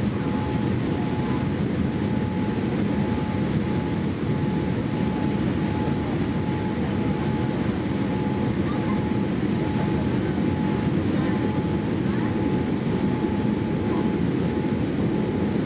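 Steady engine and airflow noise inside the passenger cabin of a Boeing 787-8 airliner, with a faint steady whine above it.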